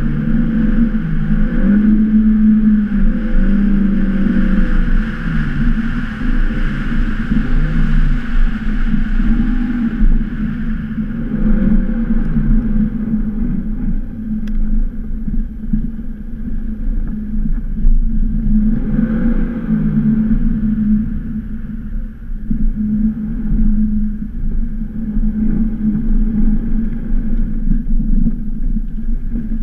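Audi A1's engine revving up and dropping back again and again as the car is driven hard on snow, over a steady rushing noise.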